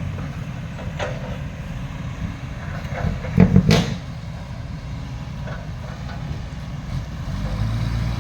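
A heavy truck's engine runs low and steady while the truck clanks and rattles over rough ground. A loud metal clatter comes about three and a half seconds in.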